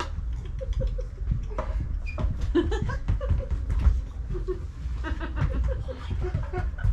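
Audience laughing and chuckling, with scattered bits of voice mixed in.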